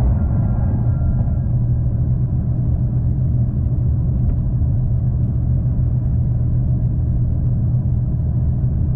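Passenger train running along the line, a steady low rumble of the wheels on the track and the running gear.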